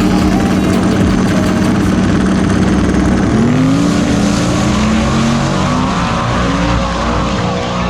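Drag race car engine held at a steady high note, then about three seconds in the pitch climbs in several rising steps as the car launches and accelerates away.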